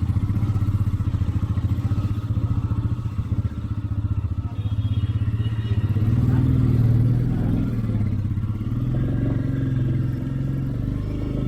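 Motorcycle engine running under way, a steady low pulsing note. About six seconds in it rises and gets louder as the bike accelerates, then settles.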